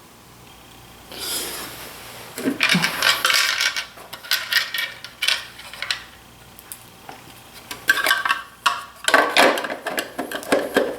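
Metal parts and hand tools of a DeWalt 735 planer clinking and clattering as they are handled during reassembly, in two bursts of sharp clicks, with a short scraping rub about a second in.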